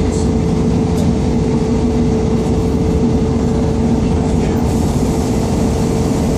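Class 158 diesel multiple unit running at speed, heard from inside the passenger saloon. A steady rumble of its underfloor engine and wheels on the rails, with a constant humming tone over it.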